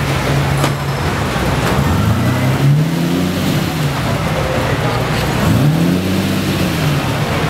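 Lamborghini supercar engine idling, then revved twice, each rev rising and falling back in pitch over a second or two.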